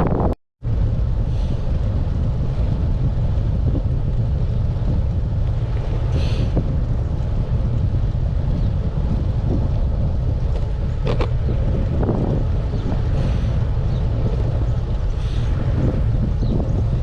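Strong wind buffeting the GoPro's microphone while riding a road bike: a loud, steady low rumble that drowns most other sound. The sound cuts out for a moment about half a second in.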